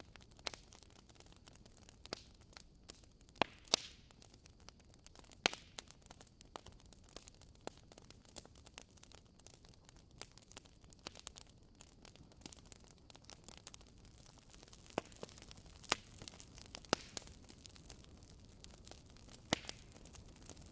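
Wood fire crackling in a fireplace: irregular sharp pops and snaps over a low steady hiss, with a few louder pops scattered through.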